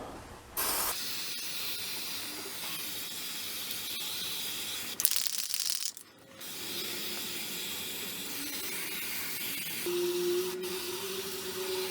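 Aerosol can of Fluid Film undercoating spraying in long hissing bursts, with a short break about six seconds in.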